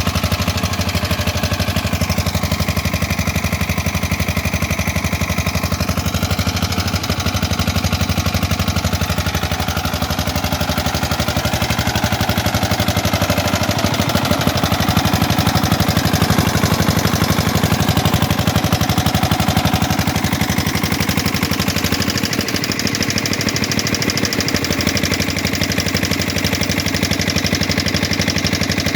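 Diesel generator engine running steadily with a rapid, even knocking beat.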